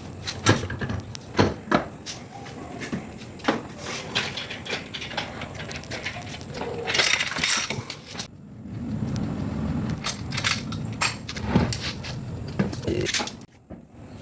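Workshop handling noise: metal tools and parts clinking and knocking irregularly, with a short hiss about seven seconds in.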